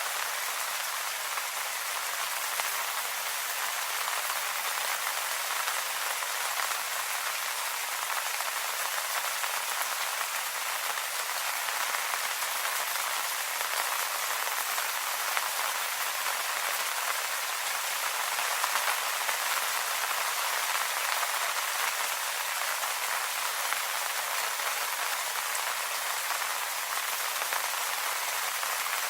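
Steady rain falling on leaves: an even hiss of many small drops, without change.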